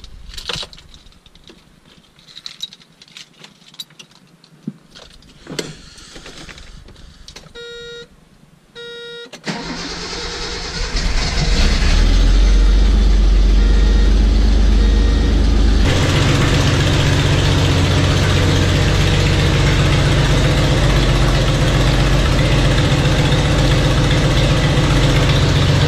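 Scattered clicks and two short beeps, then the starter cranks a Datsun L-series straight-six about nine seconds in; it catches within a couple of seconds and runs steadily at idle.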